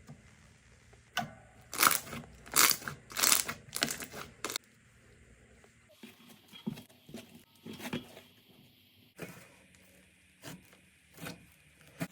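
Slime being squeezed and pressed, making crisp crackling and crunching pops. A run of loud crunches in the first few seconds gives way to quieter, sparser crackles in the second half.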